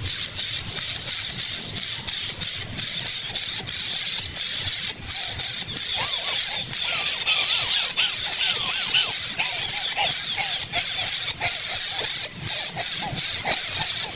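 Crickets and other insects chirping steadily, one of them in an even, rapid pulsing high chirp. From about six seconds in, a run of short calls that swoop up and down joins them.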